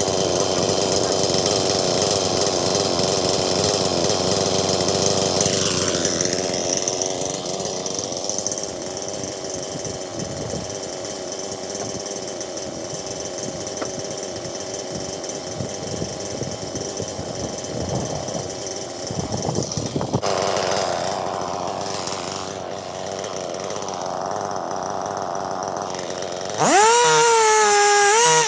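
Stihl MS 261 C-M two-stroke chainsaw running and cutting through a log. The engine pitch drops about six seconds in and runs lower under load, then the saw revs up loudly near the end.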